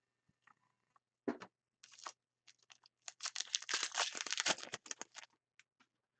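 Foil trading-card pack wrapper crinkling and tearing as it is ripped open and handled, in a dense crackly run lasting about two seconds, after a single knock about a second in.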